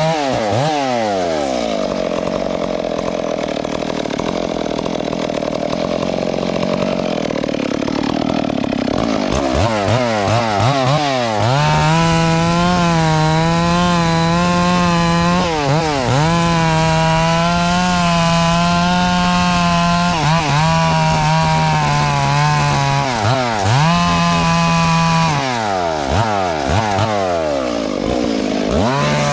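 Two-stroke chainsaw engine revving up and down several times, with a lower, rougher stretch early on. It then holds a high, steady pitch for long stretches, dipping briefly twice, and revs up and down again near the end.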